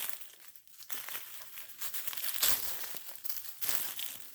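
Footsteps crunching and rustling through dry leaf litter and brush, in uneven bursts.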